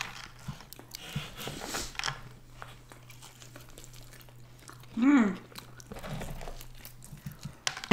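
Close-up mouth sounds of pizza being bitten into and chewed, with small crunches and clicks, and a short hummed "mm" about five seconds in.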